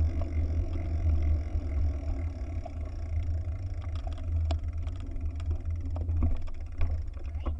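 Wind buffeting the microphone: a heavy, bass-heavy rumble that swells and eases, with a few light clicks in the second half.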